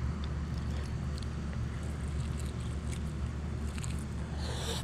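A person chewing smoked pork rib, with faint clicks of chewing and a short hiss near the end as he bites into the rib. A steady low hum runs underneath.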